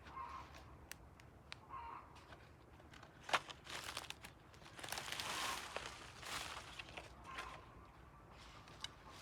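Fence netting rustling and crinkling as it is handled, with several sharp knocks, the loudest about three seconds in. Chickens cluck briefly now and then.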